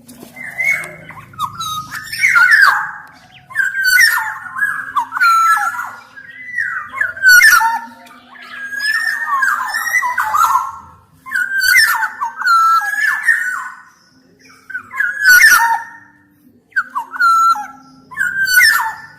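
Black-naped oriole (kepodang) singing: fluty, whistled song phrases with bending notes, coming in bursts of one to two seconds with short pauses between them.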